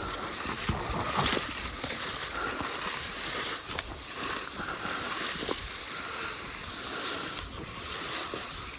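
Steady rustling and swishing of someone walking through tall grass and brush, with a few light knocks along the way.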